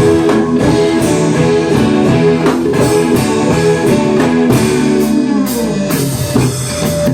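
Live band music: guitars playing over a drum kit.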